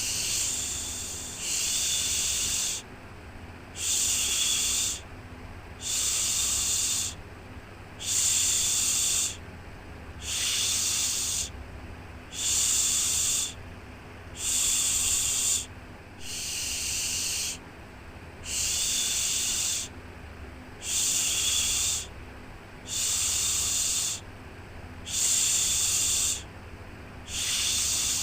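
Rhythmic shushing, a drawn-out 'shhh' about a second long repeated roughly every two seconds, with a faint steady low hum underneath.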